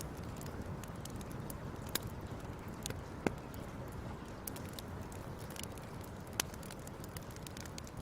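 Fire crackling, with scattered sharp pops over a steady low rumble; the loudest pops come about three and six seconds in.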